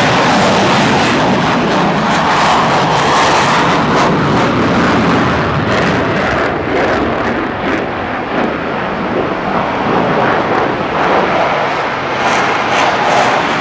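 Fighter jet engine noise, loud and steady, with a rough crackle running through the second half.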